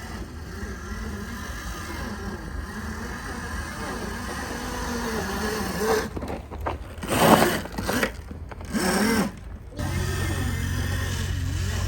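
Small gas dirt bike engine running with a wavering pitch, several loud bursts through the middle, then settling into a steady low drone about ten seconds in.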